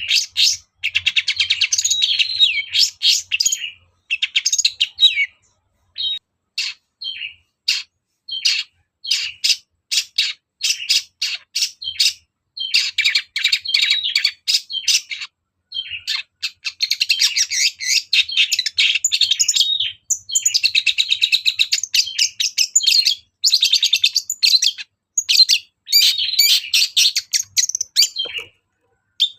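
Long-tailed shrike singing a fast, varied chattering song full of mimicked phrases of other birds. Dense runs of rapid high notes give way about four seconds in to a few seconds of short, separate calls with gaps, then resume with brief pauses.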